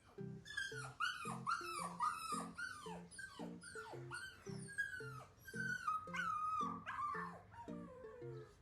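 A dog whining in a run of short, falling whimpers, about two a second, turning into a longer wavering whine that slides down near the end. Background music with a steady plucked beat plays underneath.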